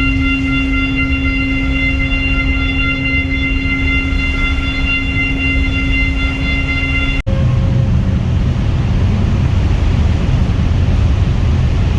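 Steady vehicle rumble with a steady multi-tone hum over it. The hum cuts out about seven seconds in, leaving a rougher low rumble.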